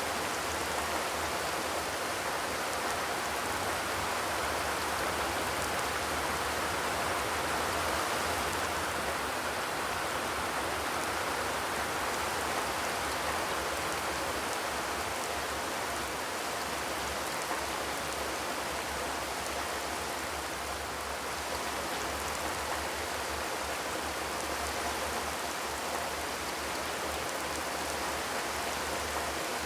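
Steady rain falling on a corrugated zinc roof, a dense even patter without thunder.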